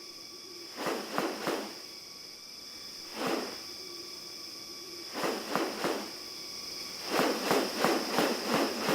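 Steady high-pitched insect drone of tropical rainforest, with a series of short, noisy rasping sounds over it that come in clusters and quicken to about three a second near the end.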